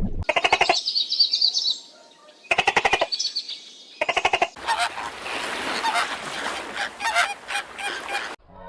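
Geese honking: three short, rasping calls, then a longer stretch of overlapping honks over a noisy background.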